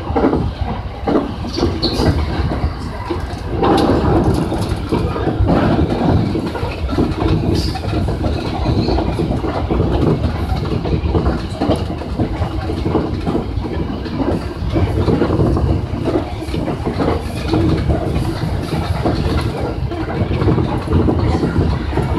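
Electric commuter train running along the track, heard from behind the driver's cab: a steady rumble with wheels clattering over the rails.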